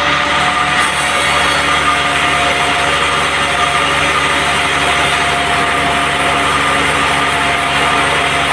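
Band sawmill running steadily, a constant engine-like hum with high whining tones.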